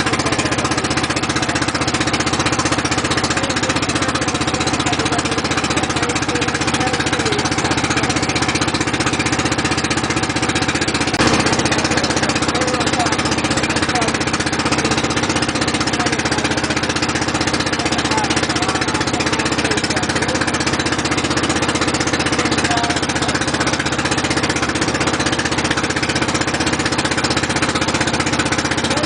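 Boat engine running steadily with a fast, rattling pulse, heard from aboard the boat, with a single brief knock about eleven seconds in.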